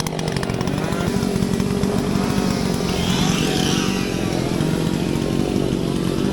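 Gas chainsaw engine running steadily.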